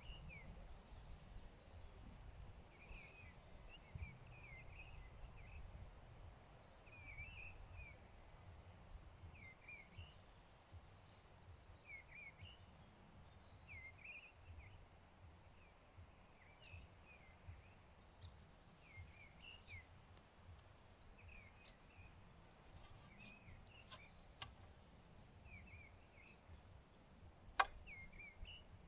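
Quiet outdoor ambience: a small bird repeats short, high chirping phrases every second or two over a low rumble. One sharp click sounds near the end.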